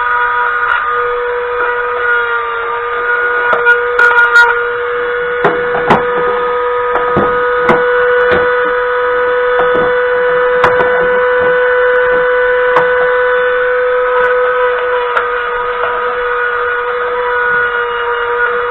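Electric power tool motor running at a steady pitch with a constant whine, with scattered clicks and scraping knocks as it works on the rusty steel of a steering rack.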